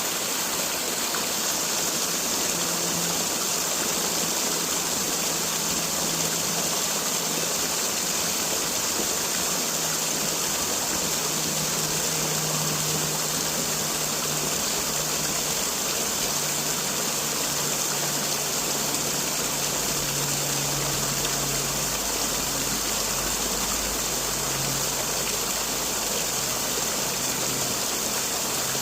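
Waterfall splashing and rushing steadily.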